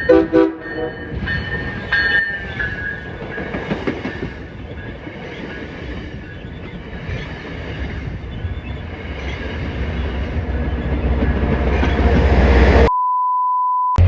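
Commuter rail train running on the tracks, wheels clicking over the rail joints, growing louder toward the end. Near the end it is cut off abruptly by a steady electronic beep lasting about a second.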